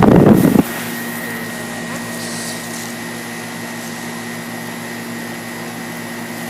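Outdoor condensing unit of a 1997 Lennox Elite Series central air conditioner running. A loud rush of air cuts off sharply about half a second in, leaving the unit's steady hum with a faint high whine.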